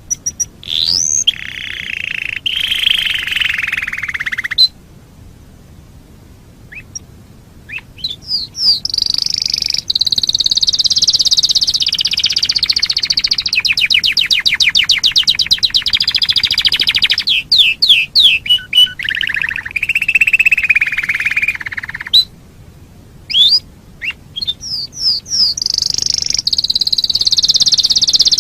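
Canary singing: long, loud song phrases of high rolls and trills. A fast, evenly pulsed trill sits in the middle of the longest phrase, and the phrases are separated by pauses of a few seconds.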